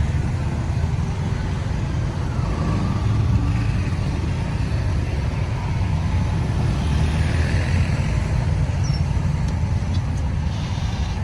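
Busy road traffic: a steady low rumble of vehicle engines and tyres.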